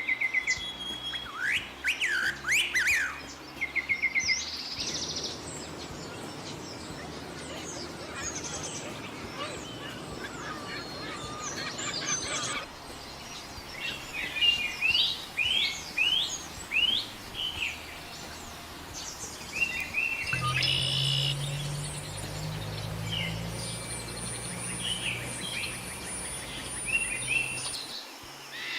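Several birds chirping and calling in short, quickly sweeping notes and brief trills over a steady outdoor hiss. The background changes abruptly a few times as separate recordings follow one another, and a low hum runs under the calls for much of the last third.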